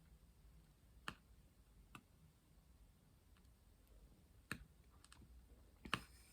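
Faint, sparse clicks and taps, about five in six seconds, the loudest a pair near the end: a diamond painting pen pressing resin drills onto the canvas.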